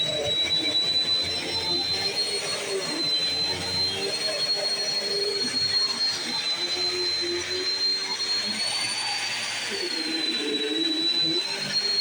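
Bissell CleanView Swivel Pet 2252 upright vacuum cleaner running steadily, its motor giving a high whine that climbs a little about nine seconds in and settles back, with the lower rushing tone shifting as the vacuum is worked.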